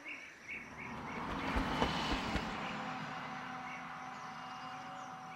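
A road vehicle passing by: its noise swells to a peak about two seconds in, then slowly fades away. Short repeated chirps sound in the background.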